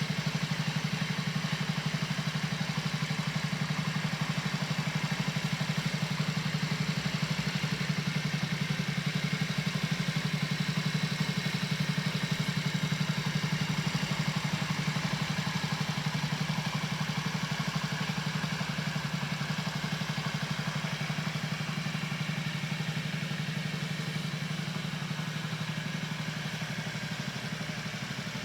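2004 Honda Zoomer scooter's 49 cc four-stroke single-cylinder engine idling steadily with an even, fast exhaust pulse, easing slightly quieter near the end.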